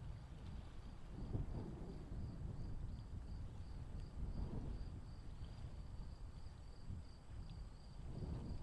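Low, uneven wind rumble on the microphone, with a faint insect chirping at a high pitch in a steady rhythm about two to three times a second.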